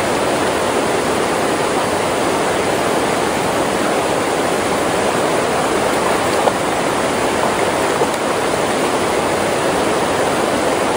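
Creek water rushing over a small waterfall: a steady, unbroken wash of noise.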